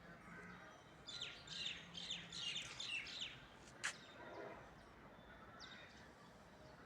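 Birds chirping: a quick run of bright chirps about a second in, lasting a couple of seconds, then a sharp click and a few softer, lower calls.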